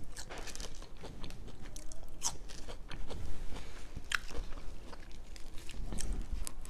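Close-miked chewing of crunchy oven-baked crinkle-cut fries, with sharp crisp crunches every second or so between wetter chewing sounds.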